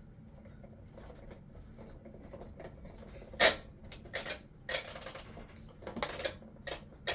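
Sharp plastic clicks and knocks from fitting the control knob back onto the washing machine's control panel: quiet at first, then one loud click about halfway through, followed by several smaller groups of clicks.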